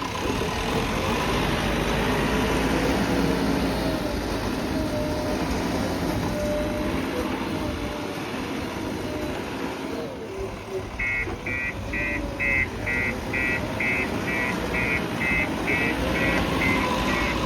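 JCB backhoe loader's diesel engine running under work, its pitch rising and falling as it is throttled. About two-thirds of the way through, a rapid high reversing alarm starts beeping.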